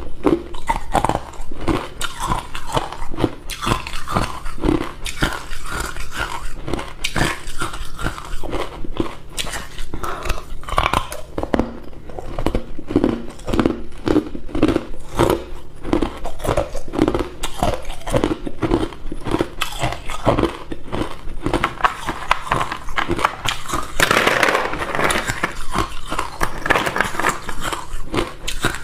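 Hard ice cubes being bitten and crunched between the teeth close to the microphone: a continuous run of crisp cracks and crunches with a steady chewing rhythm.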